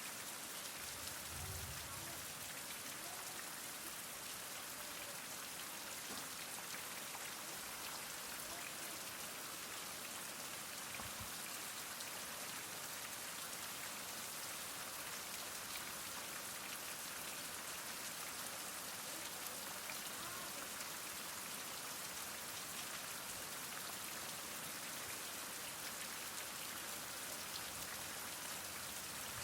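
Heavy rain falling steadily: an even, unbroken hiss of many drops on surfaces.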